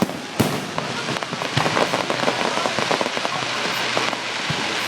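Fireworks: one sharp bang about half a second in, then a dense, rapid crackling of many small pops that goes on for several seconds.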